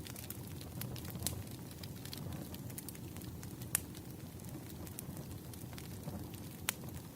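Wood fire crackling: a steady low rumble with scattered sharp pops, the loudest about a second in, near four seconds in and near the end.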